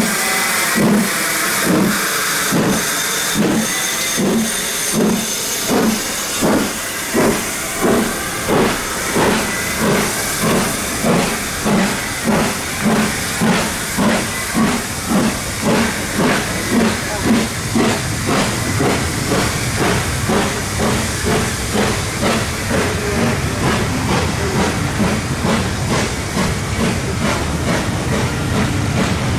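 Steam locomotive 7029 'Clun Castle', a four-cylinder GWR Castle-class 4-6-0, getting a train under way: hissing steam and exhaust chuffs that come quicker and quicker as it picks up speed. Later the beats blur into the steady rumble of the moving train.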